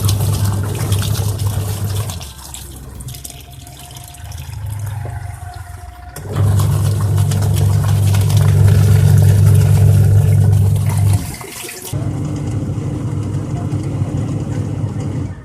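Washing machine running with water in the tub: its motor hums steadily while it drives the wash. The hum drops back about two seconds in, comes back strongly about six seconds in, and changes character after a brief dip near eleven seconds.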